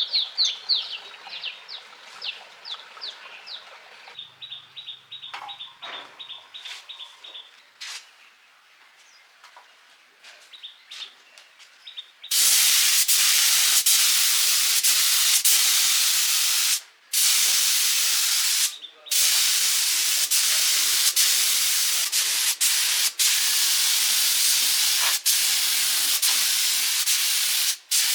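Small birds chirping in quick runs with a few light clicks, then about twelve seconds in a loud, steady spray hiss starts and keeps going, cutting out briefly three times.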